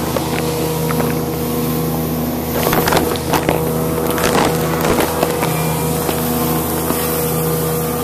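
Motorboat engine running steadily at low speed, a constant droning hum, with a few louder bursts of rushing noise about three to five seconds in.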